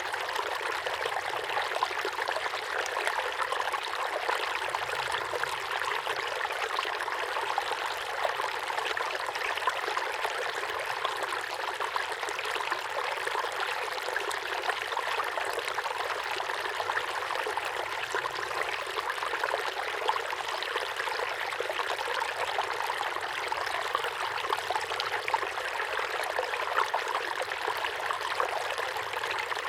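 Small waterfall pouring steadily into a pond: a constant splashing and trickling of falling water.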